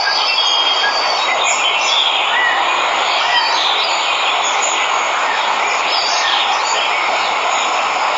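Waterfall rushing steadily, with birds chirping and calling in short bursts over the roar of the water.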